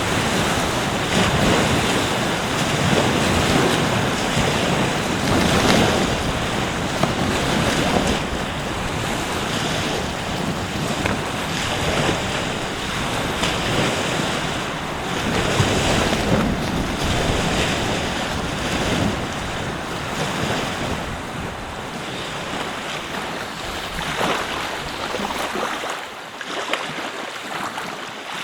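Ocean surf washing onto the beach in repeated swells a few seconds apart, with wind buffeting the microphone.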